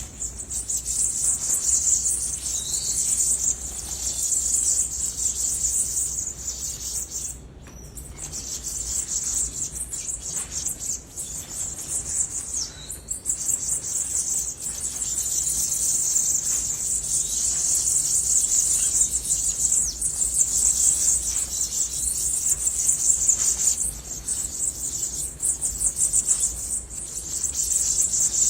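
A steady, high-pitched chirring of insects, cricket-like, with a few short bird chirps scattered over it. The chirring drops away briefly about a quarter of the way in.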